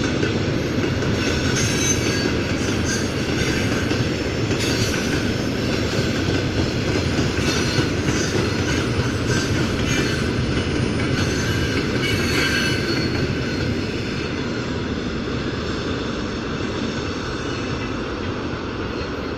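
Freight train wagons rolling past on the rails, a steady rumble with wheels squealing on and off. It eases slightly in the last few seconds.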